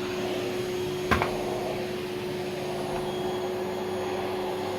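Vacuum cleaner running steadily, a constant motor whine over the rush of suction air, with a single short knock about a second in.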